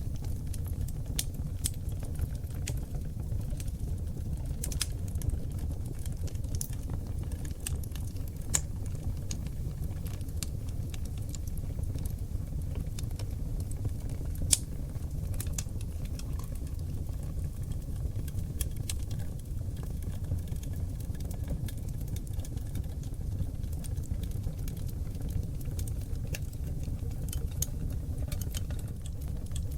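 Oak log fire burning in a fireplace: a steady low rumble of flames with frequent sharp crackles and pops, one louder pop about halfway through.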